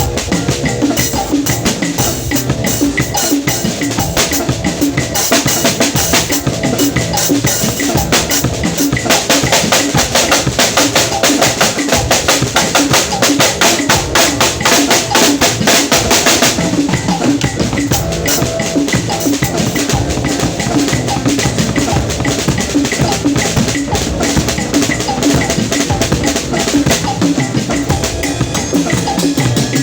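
A drum kit being played, with bass drum and snare, in a steady groove. The strokes turn into a fast, dense run from about nine to sixteen seconds in.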